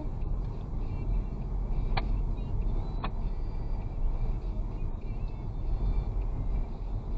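Steady low rumble of a vehicle driving: engine, tyre and wind noise, with two short clicks about two and three seconds in.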